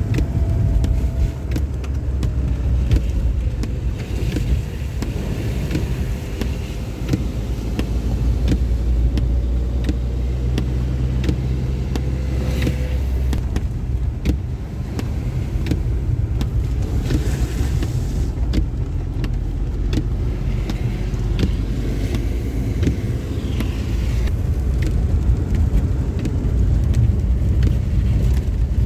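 Car driving in a heavy downpour: a steady low rumble of the road and engine, with many sharp ticks of rain striking the car.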